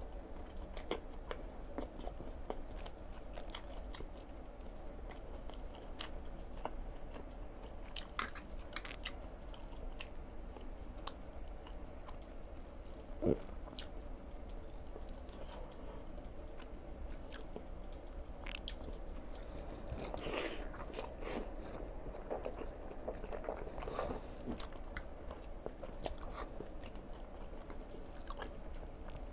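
A person chewing noodles close to a clip-on microphone, with scattered small clicks and one sharp tap about a third of the way through.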